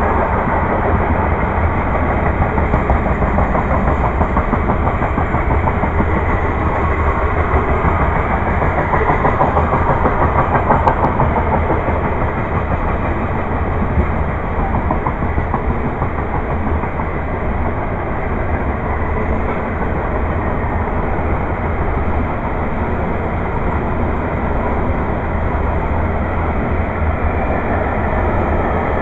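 Freight train cars rolling steadily past: a continuous rumble of wheels on rails that swells a little about a third of the way in.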